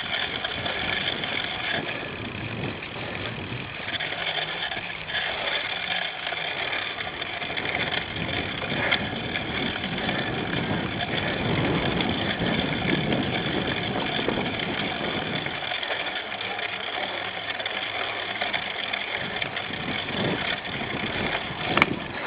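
Cyclocross bike being raced, heard from a camera mounted on the bike: steady tyre rumble and drivetrain rattle mixed with wind noise on the microphone, swelling and easing, with a few sharp knocks near the end.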